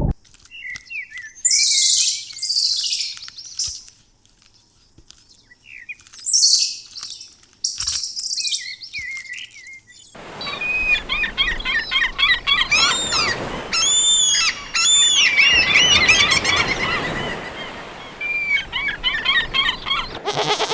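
Birds chirping. In the first half, a few short chirps come with bursts of high hissing noise; from about ten seconds in, a dense chorus of many overlapping high chirps takes over.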